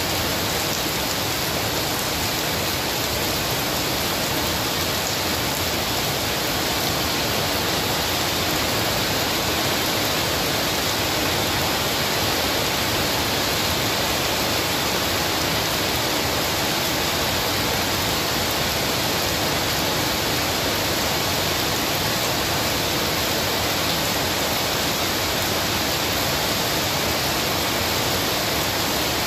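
Heavy rain falling steadily onto wet paved ground, a dense, even hiss of drops splashing.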